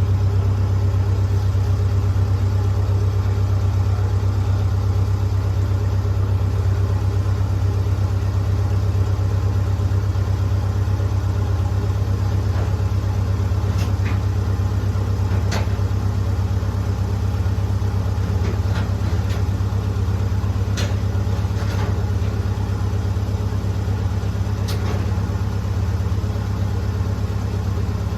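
Lincoln SA-200 engine-driven welder's engine running steadily with a strong, even hum. A few light clicks come in the second half.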